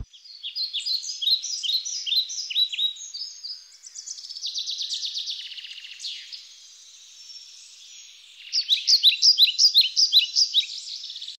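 Birdsong: runs of quick, high, downward-sweeping chirps with a fast trill in the middle. A louder, rapid series of chirps comes near the end.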